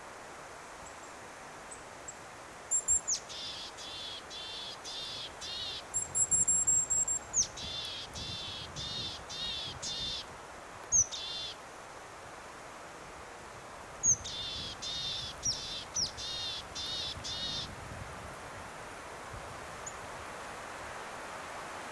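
Three runs of high chirping calls, about two a second, each run opened by a sharper, higher whistle. A steady rush of wind and leaves runs underneath.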